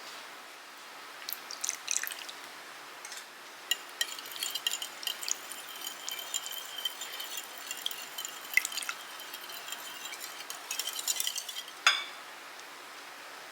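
Hand whisk stirring a yogurt-and-milk mixture in a bowl, with irregular light clinks and scrapes against the bowl's side and a sharper clink near the end.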